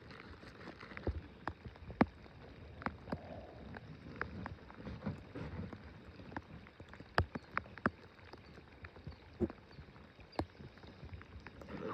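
Irregular light taps and clicks on a small boat, a few a second at most, over a faint steady hiss.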